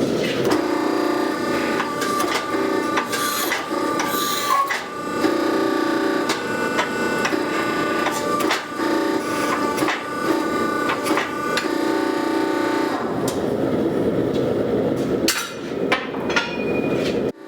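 Hammer blows striking steel on an anvil in irregular runs, with the anvil ringing between strikes while the axe is forged.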